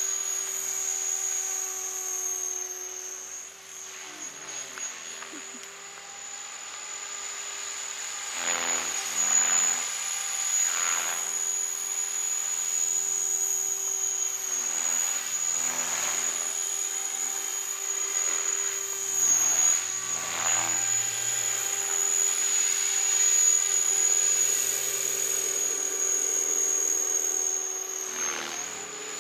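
A remote-control helicopter flying: a steady high-pitched motor whine over a lower hum, with whooshing swells from the rotor every few seconds. The sound drops briefly a few seconds in, then builds again.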